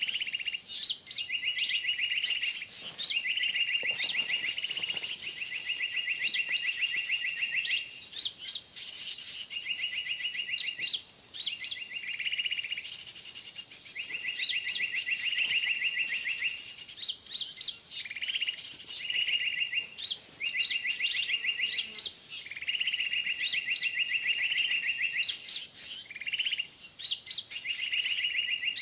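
Bird calls from an MP3 lure used to attract birds into a trap: a rapid buzzy trill repeated again and again in spells of a second or two, with short higher chirps over it.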